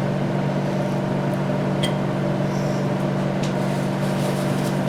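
A steady machine hum from a running appliance or fan, with a few light clicks of small metal parts being handled.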